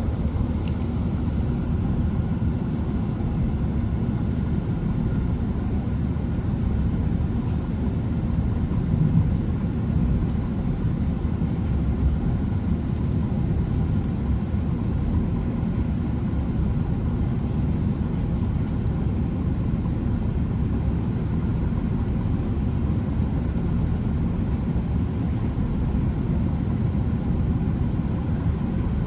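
Steady low rumble of a Class 165 diesel multiple unit heard from inside the carriage as it runs between stations: the underfloor diesel engine and the wheels on the rails.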